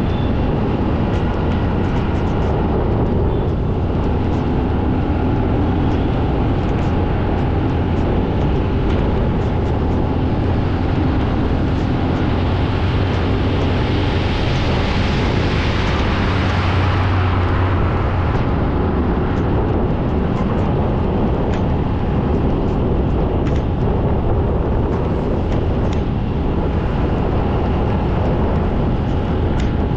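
Steady low rumble of a vehicle driving on a wet road. A hiss of tyres on water swells and fades around the middle.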